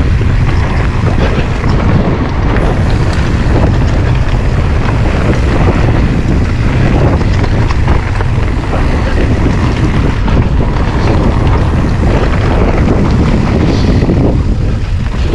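Wind rushing and buffeting on an action camera's microphone while riding an e-mountain bike, with a steady low rumble and uneven rattle from the ride.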